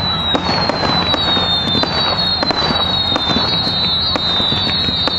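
Fireworks display: many whistling fireworks overlapping, each a high whistle falling slowly in pitch, over a dense crackle of sharp bangs.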